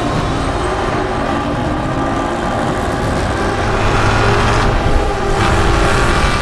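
The V8s of a Dodge Charger SRT Hellcat and a C7 Corvette Stingray accelerating hard in a drag race. The sound gets louder about four seconds in as the Corvette passes close.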